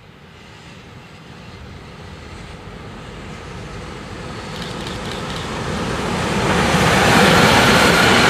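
A train approaching along the line, its noise of wheels on rails and traction growing steadily louder and levelling off near the end as it comes close.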